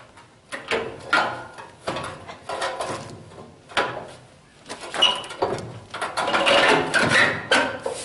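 A new radiator being worked into place in a Case 580C backhoe's frame: a run of knocks, scrapes and rattles of metal on metal, busiest from about six seconds in, as it is pushed past the bolts in its way.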